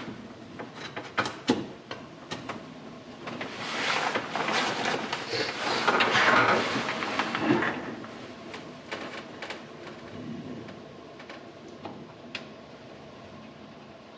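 Wooden plank being handled and fitted against a wall: a few light knocks, then several seconds of wood scraping and rubbing as it is worked into place, followed by scattered small taps.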